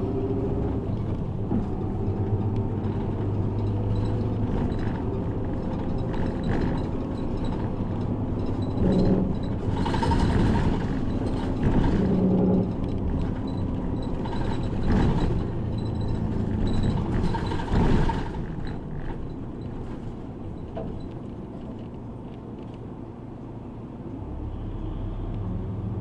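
City bus heard from inside while running: steady engine and road rumble, with several louder rushes of noise between about nine and eighteen seconds in. It quietens for a few seconds near the end, then a low rumble builds again.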